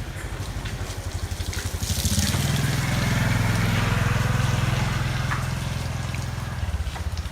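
A nearby engine running with a fast, even pulse, growing louder about two seconds in and easing off near the end, with a burst of hiss as it peaks.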